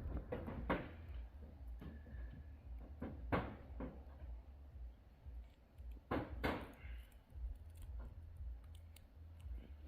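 A few scattered knocks and clicks of kitchen items being handled, the sharpest pair about six seconds in, over a low steady hum.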